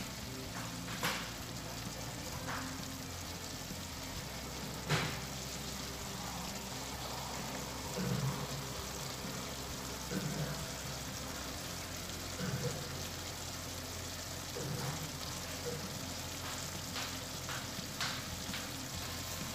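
Chicken feet sizzling in their seasoning sauce in a pot on the stove, a steady hiss with a few sharp clicks, about a second in and again around five seconds in.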